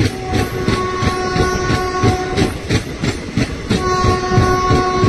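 A train's horn sounds a long held blast, breaks off for about a second, then sounds again, while the coach wheels clatter rhythmically over the rail joints of a moving train.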